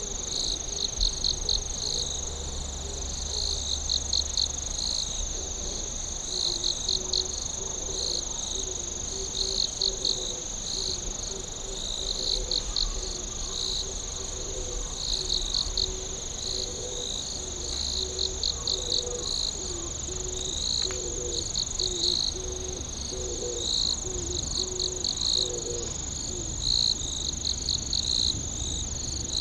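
A chorus of night insects: one steady, high, continuous trill, with crickets chirping over it in short rhythmic bursts. Through the middle a lower pulsing call repeats beneath them.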